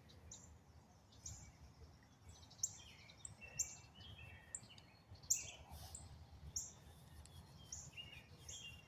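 Wild birds chirping, faint short high chirps repeated about once or twice a second.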